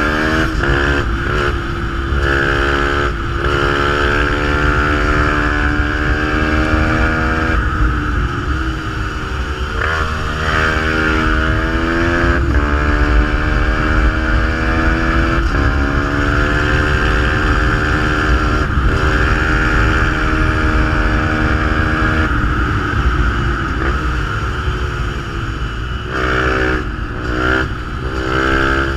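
Fantic 125 supermotard's single-cylinder engine through a GPR aftermarket exhaust, under hard acceleration: the pitch climbs again and again, broken by quick upshifts and some drops in revs. A constant low rumble runs underneath.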